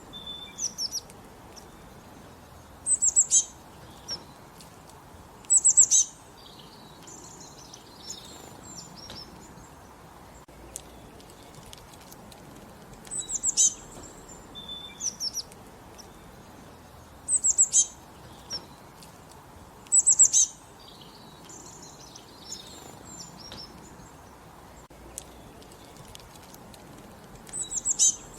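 A songbird singing, repeating a short, loud, high-pitched phrase of quick falling notes every few seconds, with softer chirps in between.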